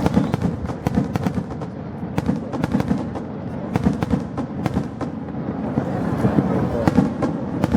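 Fireworks going off in quick succession: a dense crackle of many sharp cracks and pops, with deeper bangs among them.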